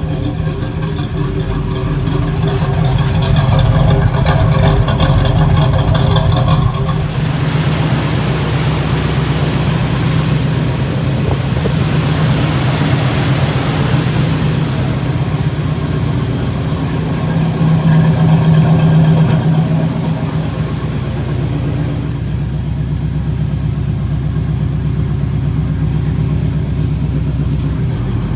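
1984 Pontiac Grand Prix's carbureted engine running at idle while the carburetor idle is being adjusted. The engine grows louder twice for a few seconds, and a hiss comes and goes in between.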